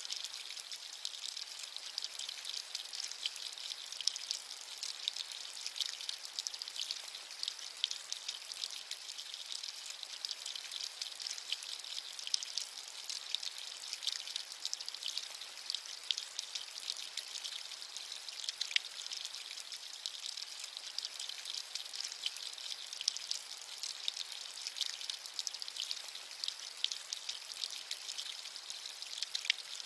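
Steady rain with a dense patter of fine drops, bright and hissy, with almost no low rumble.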